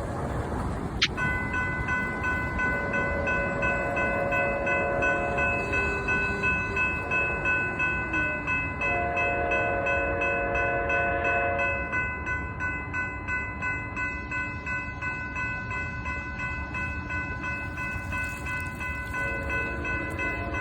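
Train passing with its air horn sounded in two long blasts, about three and nine seconds in, over the steady ringing of a grade-crossing bell and the rumble of the train.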